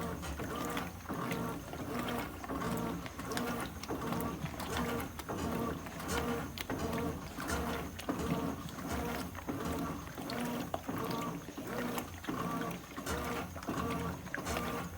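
Brastemp 17 kg washing machine in its initial agitation, washing two pillows: the motor drives the wash back and forth in an even rhythm, with a motor whine on each stroke and water sloshing.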